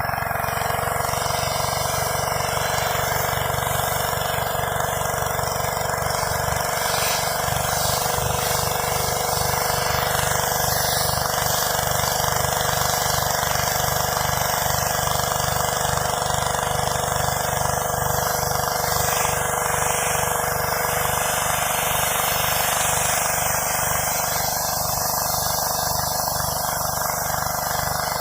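Gas engine-driven pressure washer running steadily under load, with the continuous hiss of high-pressure water blasting concrete.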